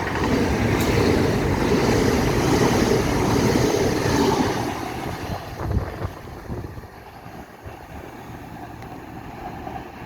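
Five-car Hitachi Class 802 (Azuma) train passing through the station without stopping. The loud rushing rumble lasts about four to five seconds, then dies away as the train moves off.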